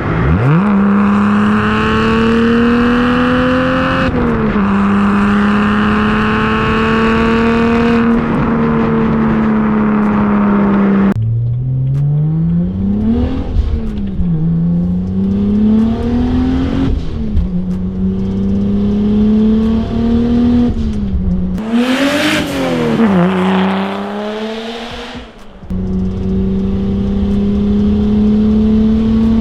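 Single-turbo BMW N54 straight-six through a 3-inch resonated single-exit exhaust with no muffler, heard while driving. It holds a steady droning note with a couple of small upshift drops in the first ten seconds, then revs up and falls back in several pulls through the middle. A short rush of hiss comes with the hardest pull about two-thirds through, and it settles back to a steady drone near the end.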